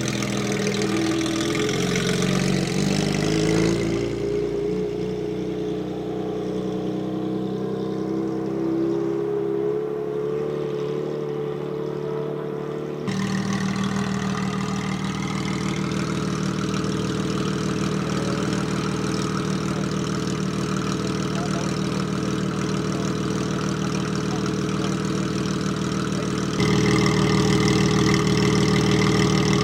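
Porsche 992 GT3 RS's flat-six engine with a Brillsteel Edizioni Corsa aftermarket exhaust running at low revs and idling, a steady low exhaust note. The sound shifts abruptly about halfway through and gets louder near the end.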